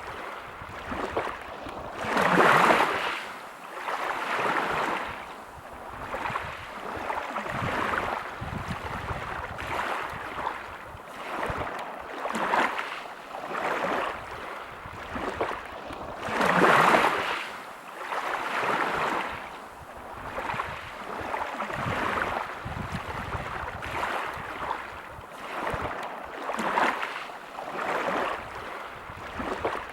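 Sea waves breaking on a pebble beach, one surge after another every two to three seconds, with the biggest surges about two seconds in and again just past halfway.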